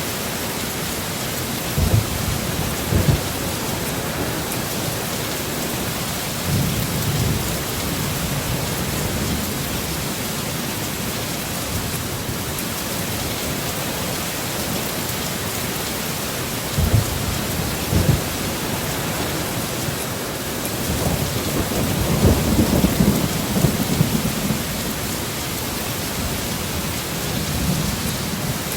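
Heavy rain falling steadily in a thunderstorm, broken by a few short low rumbles of thunder and a longer rolling rumble about three quarters of the way through.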